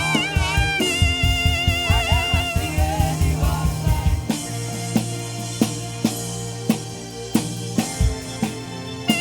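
Live band music: a saxophone plays a wavering melody over drum kit and bass guitar. The saxophone drops out about three seconds in, leaving the drums with a held bass note.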